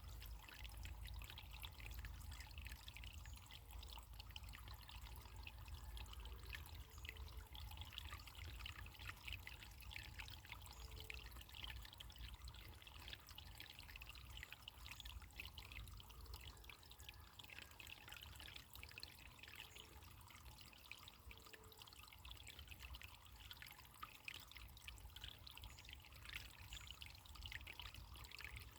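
Faint, steady trickle of running water, like a small stream.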